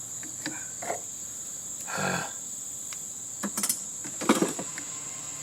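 Steady high-pitched chirring of insects, with a handful of short knocks and clanks from the dismantling of a heating and air-conditioning unit; the loudest clank comes about four seconds in.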